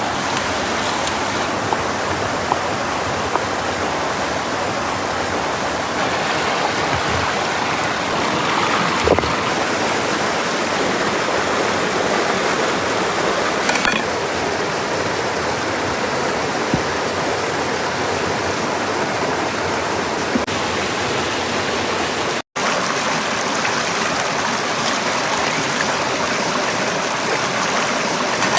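Steady rushing of a flowing stream, with a few faint clicks over it; the sound drops out for an instant about three-quarters of the way through, then carries on unchanged.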